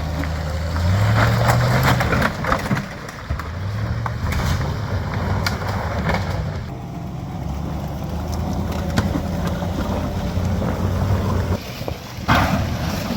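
GMC Z71 pickup truck's engine running and revving under load. Its pitch rises about a second in and again around four seconds, then it pulls steadily. A short burst of rushing noise comes near the end.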